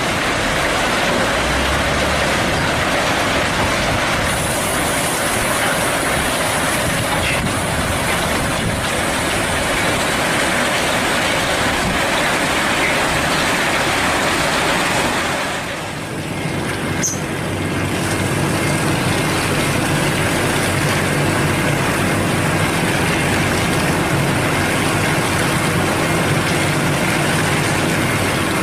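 Hino cement mixer truck running: a loud, steady rushing noise, and after a brief dip about halfway through, the diesel engine's steady hum comes through beneath it.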